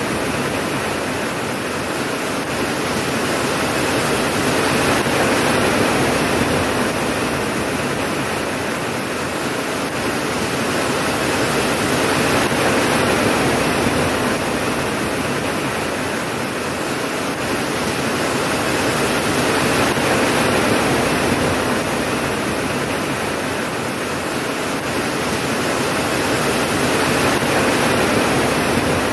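Steady heavy rain, a dense even hiss that swells and eases gently every several seconds, with no thunder.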